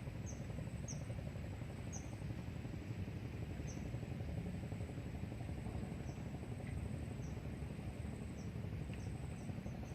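Wind rumbling on the microphone, with short, falling high-pitched chirps recurring irregularly about once a second over a thin, steady high tone.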